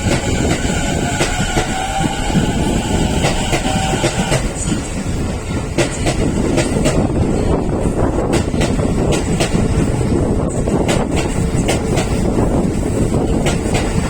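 Keio electric train pulling out and gathering speed: a continuous rumble with a faint rising motor whine in the first few seconds, then the rhythmic clatter of wheels over rail joints and points as it crosses from the up track.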